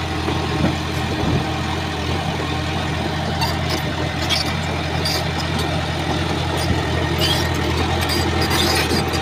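Shantui bulldozer's diesel engine running steadily with a low, even hum, with scattered short high-pitched clicks and squeaks through the second half.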